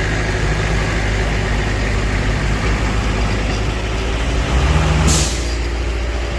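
Heavy diesel engine of earthmoving machinery running steadily, rising briefly about four and a half seconds in, then a short sharp hiss about five seconds in.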